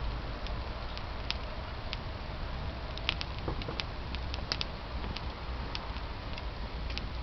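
Wood campfire crackling, with irregular sharp pops and snaps from the burning wood, a few coming in quick succession about three to five seconds in.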